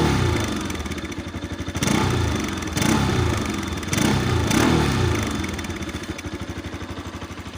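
Bajaj Pulsar RS200's single-cylinder engine and exhaust given a few soft throttle blips, its pitch rising sharply and falling back to idle each time, then idling steadily near the end.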